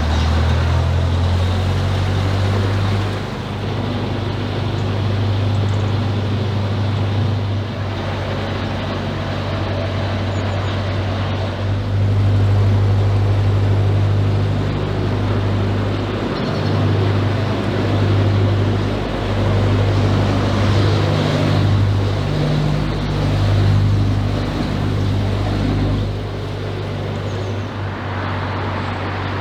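Narrowboat diesel engine running steadily under way: a constant low drone with a rushing noise over it.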